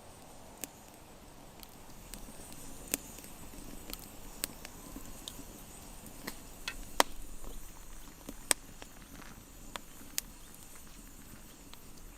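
Irregular sharp clicks and light knocks, about a dozen over a faint steady hiss, the loudest about seven and eight and a half seconds in: small impacts of hand work with wood or tools.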